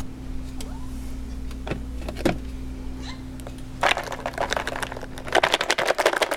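A treat bag being handled: scattered crinkles and clicks, then a quick rattling run of crackles near the end, over a steady low hum.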